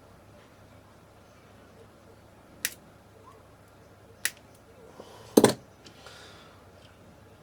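Cutters snipping through the thin metal legs of a small switch: three sharp snaps a second or two apart, the third louder and doubled.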